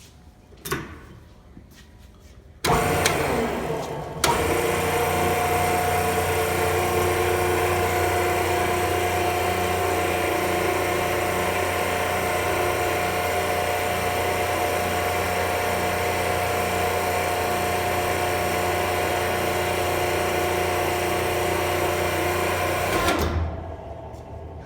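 A Bethlehem vertical baler's electric hydraulic pump starts about three seconds in, after a light click. Its sound steps up a second later, it runs steadily while driving the compaction plate, and it shuts off near the end.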